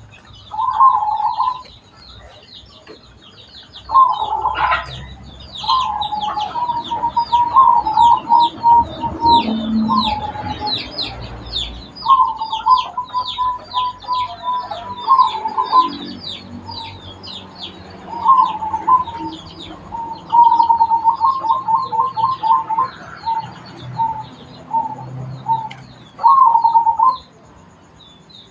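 Zebra doves (perkutut) cooing in repeated phrases: runs of quick staccato notes and short coos with pauses between, over constant high-pitched chirping from small birds.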